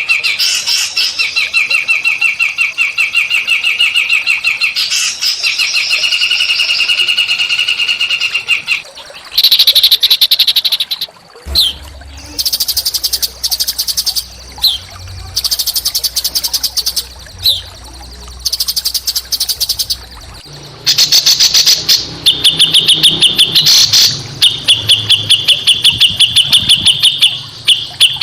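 Small songbirds giving fast, buzzy, rough trills in phrases of several seconds, with short breaks between phrases. A low hum runs under the calls in the middle part.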